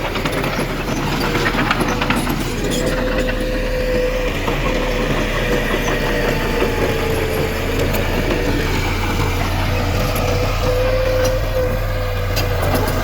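Heavy diesel engine of earthmoving machinery running steadily, with a constant whine over it and light clicks and clanks now and then.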